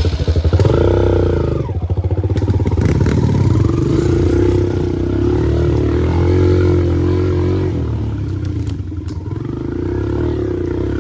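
Dirt bike engine running loudly as the bike rides off, revving up about a second in and then easing, its pitch rising and falling with the throttle, with a few sharp clatters near the end.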